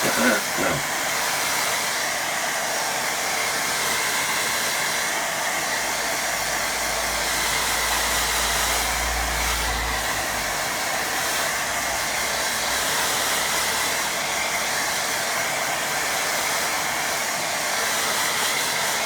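Handheld hair dryer switched on and blowing steadily, drying wet watercolour paint. A low rumble joins it for a few seconds in the middle.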